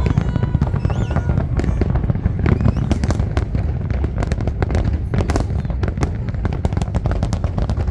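New Year's fireworks bursting, dense overlapping bangs and crackles over a constant rumble.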